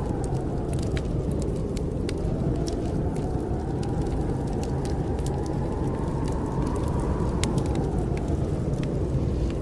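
Snowstorm wind blowing in a steady low rush, with a faint howl that slowly rises and falls, over scattered pops and crackles of a wood fire burning in a fireplace.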